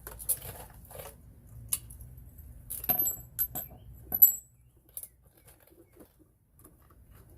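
Metal tools and hardware being handled: a string of sharp metallic clicks and clinks, the loudest two brief ringing clinks about three and four seconds in, then only faint ticks.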